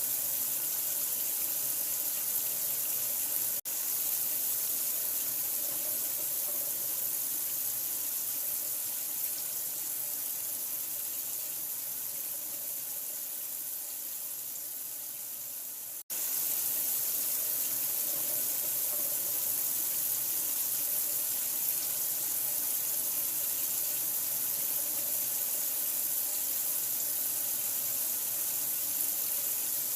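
Steady running water, a continuous even rush. It cuts out for an instant twice: once about a few seconds in and once about halfway through.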